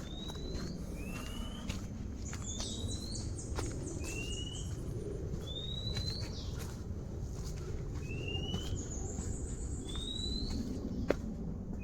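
Forest birds whistling: a series of short rising whistles about once a second, alternating between a lower and a higher pitch, with a higher, fainter trilling call from another bird partway through.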